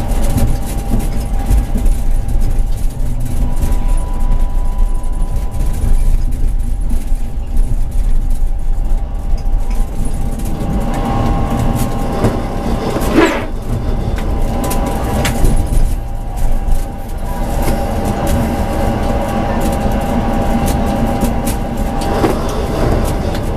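Tram running along the track, heard from the driver's cab: a steady low rumble with a constant whine, and a short, sharper sound about halfway through.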